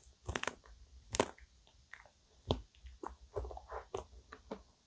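Close-miked mouth sounds of chewing a forkful of chocolate-topped vanilla ice cream cake. A few sharp crunches come over the first two and a half seconds, then a quicker run of smaller crunchy chewing sounds.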